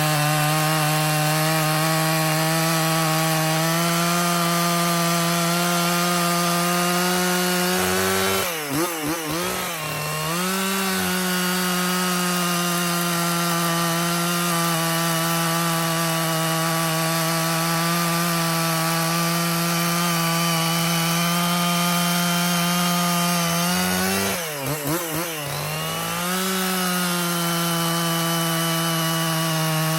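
Husqvarna 55 two-stroke chainsaw running at a steady high pitch while bucking wood. Twice, about nine seconds in and again near twenty-five seconds, the engine note drops and wavers for a second or two, then climbs back to full speed.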